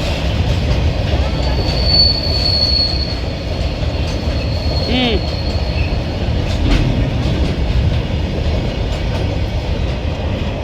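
Goods train wagons rolling past on the track, a steady low rumble with a thin, high wheel squeal that is loudest about two seconds in.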